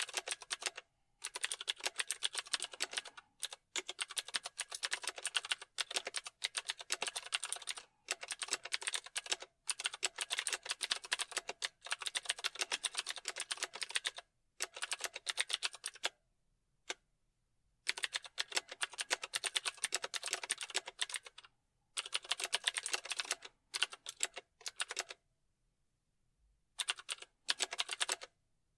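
Typing on a computer keyboard: rapid key clicks in runs of a few seconds, broken by short pauses, with a longer pause near the end.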